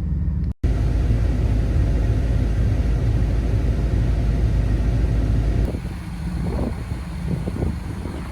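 Chevy LS V8 in a swapped Jeep TJ running after a cold start at about minus 35 degrees, having sat a week outside without a block heater; a steady low rumble. It cuts out briefly about half a second in, and from about two-thirds through it is quieter and rougher.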